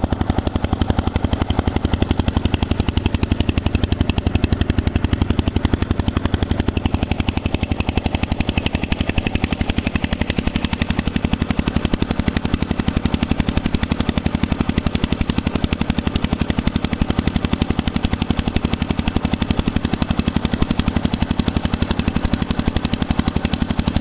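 A boat's engine running steadily under way, with a rapid, even beat that does not change.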